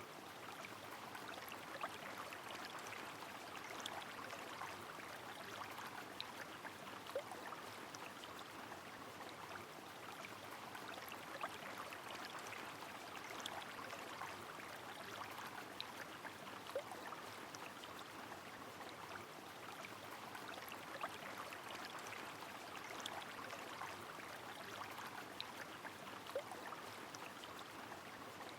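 Steady rush of a flowing river mixed with falling rain, dotted with scattered small drips and splashes.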